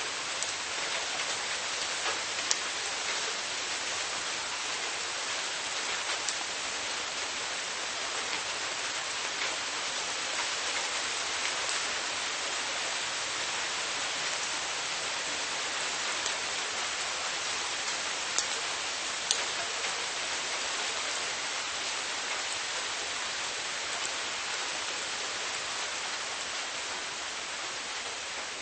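Steady rain falling, an even hiss with scattered individual drops ticking close by, a few of them louder.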